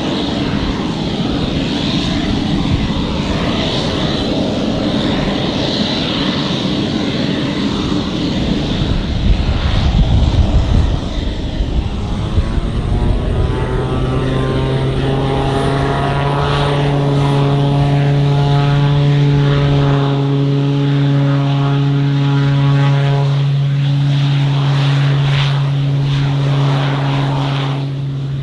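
Pilatus PC-12 NG single-engine turboprop running: a steady engine noise, then a loud low rumble, then about halfway through a low propeller hum with a stack of overtones comes up, rises briefly in pitch and holds steady.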